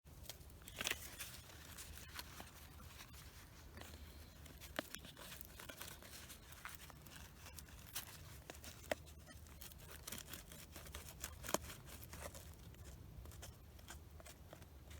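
Irregular light crackles, snaps and tearing sounds from dry bark or twigs, with a few sharper clicks standing out.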